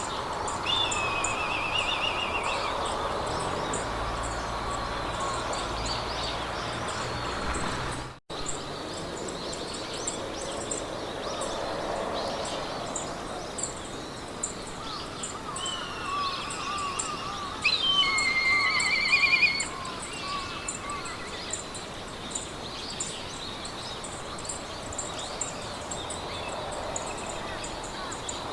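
Meadow ambience: birds singing short trilling phrases over a soft hiss of wind in grass, with a fast, even, high-pitched ticking running throughout. The loudest song comes about two-thirds of the way through, and the sound cuts out for an instant about 8 seconds in.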